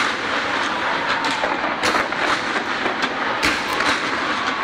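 Large aerial fireworks display: a dense crackling hiss broken by several sharp bangs of bursting shells, roughly one a second.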